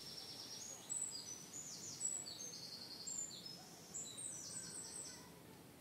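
Faint birdsong: small birds chirping in short, high, quick notes, many of them slurring downward, over a low background hiss. The chirping fades out near the end.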